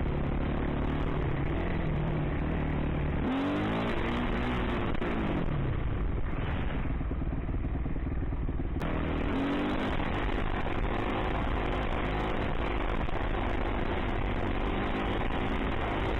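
Dirt bike engine running hard, its pitch climbing and dropping several times as it revs and shifts. The sound changes abruptly about nine seconds in.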